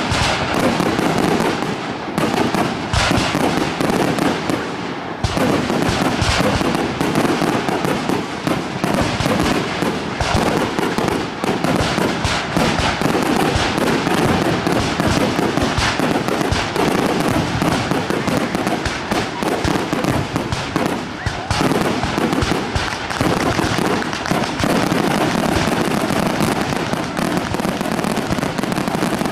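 Fireworks display: a dense barrage of aerial shells bursting, many bangs and crackles following close on one another almost without a break.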